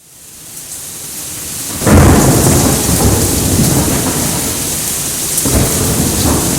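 Thunderstorm: rain falling with a steady hiss, then about two seconds in a loud thunderclap breaks and rolls on as a long rumble, swelling again near the end.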